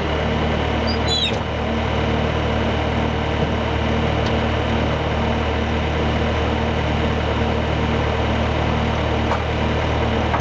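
Portable sawmill's engine running steadily at a constant speed. A brief high chirp about a second in.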